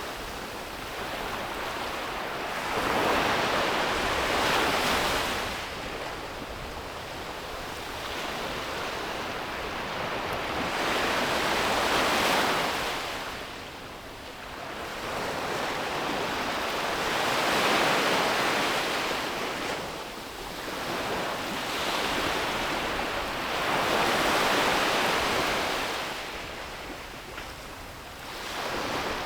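Sea waves breaking and washing up on a beach, the surf swelling and fading in slow surges every several seconds.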